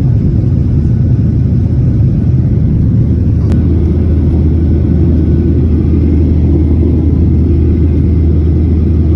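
Steady low rumble of jet engines and airflow inside an airliner cabin, with a single sharp click about three and a half seconds in.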